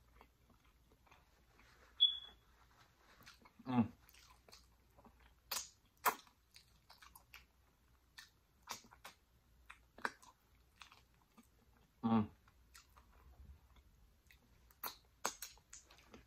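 Close-up chewing and wet mouth clicks of a person eating saucy jerk pig tails by hand, biting and licking meat off the bone, with two short voiced hums about four and twelve seconds in.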